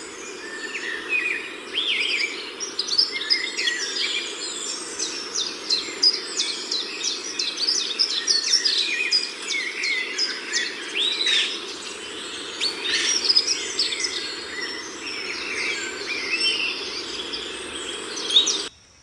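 A chorus of many songbirds singing at once: overlapping chirps, trills and whistles over a steady low background noise. The recording cuts off abruptly just before the end.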